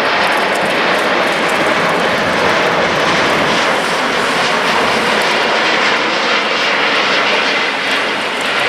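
Jet airliner's engines: a loud, steady rushing noise as the aircraft passes.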